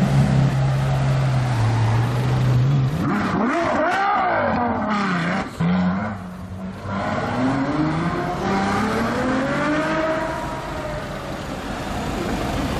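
Supercar engine holding a steady low note for about three seconds, then revved up and back down sharply, cutting briefly, then climbing in one long rising run of revs that peaks and falls away near the end.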